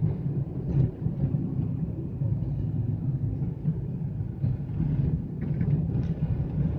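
Steady low rumble of a Hyundai Xcent compact sedan on the move: engine and road noise.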